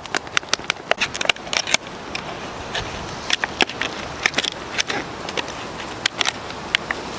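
A run of irregular sharp clicks and crackles over a steady hiss of wind.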